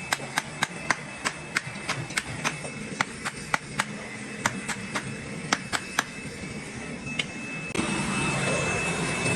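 Hammer blows on metal, sharp and irregular, about three a second for some six seconds. Near the end a workshop machine starts running with a steady high whine over a hiss.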